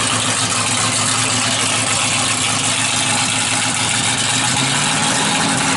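1963 Dodge Super Stock's 426 Max Wedge dual-quad V8 running at a steady idle, loud.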